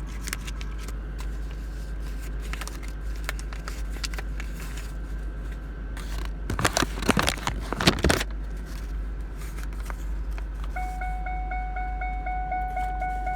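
Clicks and handling knocks, with a loud cluster of knocks and rattles in the middle, then an electronic warning chime starting near the end, repeating fast at about four dings a second.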